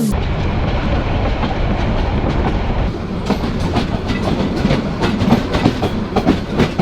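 An intercity passenger train running on the track, a steady low rumble of wheels and coaches. About halfway in, a quick run of sharp clacks and knocks joins it as the wheels go over rail joints.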